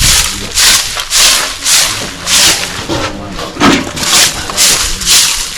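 Rhythmic scraping strokes, about two a second, with a voice faint behind them.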